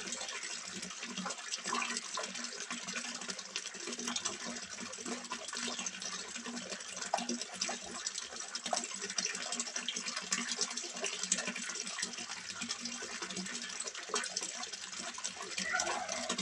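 Water splashing and trickling steadily into a small fish pond, a continuous patter of many small droplets, with a low steady hum underneath.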